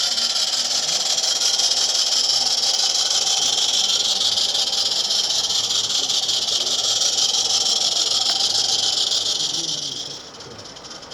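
Steady, loud hiss of steam escaping from a 16mm-scale live steam locomotive, which drops sharply about ten seconds in to a much softer hiss.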